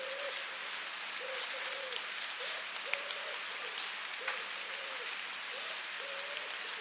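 Steady rain hiss, with a few louder single drops landing sharply in the middle. Under it, a faint low pitched note repeats in short pairs about once a second.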